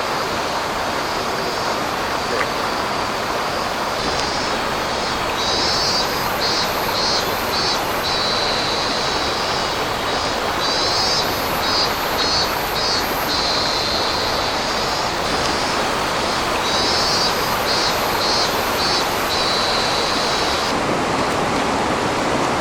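Steady rush of flowing river water. Over it, a high insect song repeats three times, each a run of quick pulses ending in a held buzz, in the manner of a cicada.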